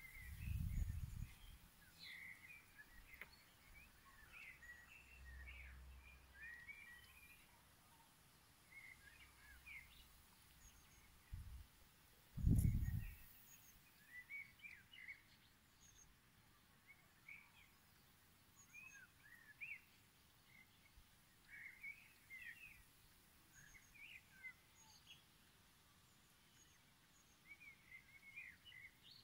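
Small songbirds chirping faintly in short, scattered calls throughout. A few low rumbles on the microphone come about a second in and again around twelve seconds in.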